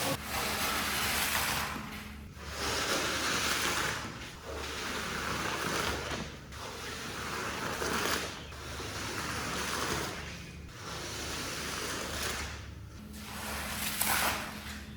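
Water spraying onto a shaggy rug in sweeping passes about every two seconds, over a steady machine hum.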